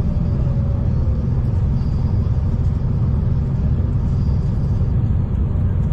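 Steady low rumble of a V/Line diesel train running, heard from inside the carriage, with a faint whine sliding down in pitch in the first second.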